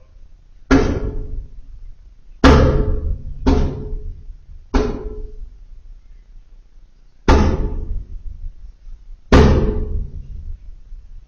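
Newly installed Viessmann gas boiler banging: six sudden bangs at uneven gaps of one to three seconds, each ringing out briefly. The manufacturer suspects explosive ignition, from the boiler being set up for natural gas instead of the LPG it runs on.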